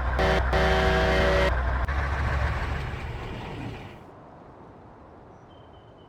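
Trial truck's engine running, with its horn sounded twice: a short blast and then a longer one of about a second. After that the engine noise dies away over the next couple of seconds, leaving quiet background.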